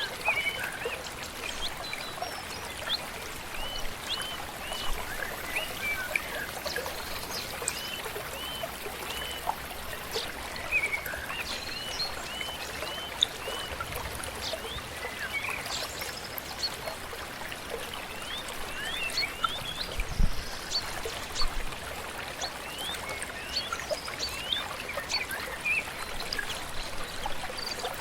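A stream trickling and flowing steadily, with several birds singing over it in quick series of short, high chirps.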